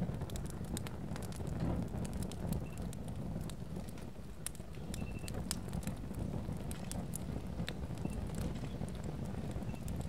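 Fire crackling: many irregular sharp pops and snaps over a steady low rumble of burning.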